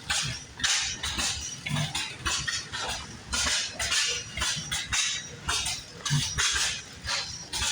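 An old engine running with uneven puffs and clatter, about two to three a second.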